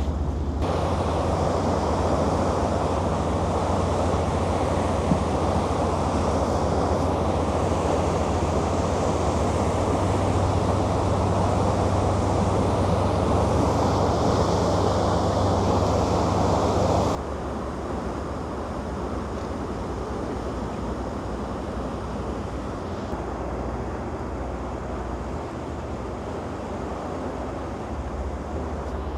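Tour boat under way: a steady engine drone under rushing wind and water noise. The level drops abruptly about two-thirds of the way through, then carries on steady and quieter.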